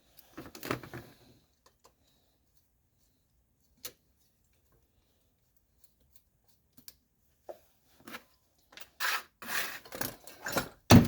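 Tape being peeled off and small engine parts handled: a few faint rustles and clicks, mostly quiet in the middle, then busier rubbing and handling in the last few seconds with a sharp knock near the end.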